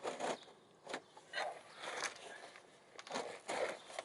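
An oil drain pan being slid into place under a car, scraping in several short, irregular shoves.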